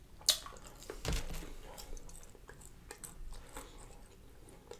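Close-up chewing of fried catfish and french fries: crunching and wet mouth sounds in irregular short crackles, with a sharp click just after the start.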